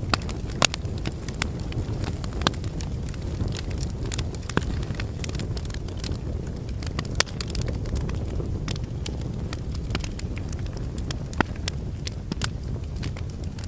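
Wood fire burning in a fireplace: a steady low rush of flames with irregular sharp crackles and pops from the logs, a few of them louder snaps.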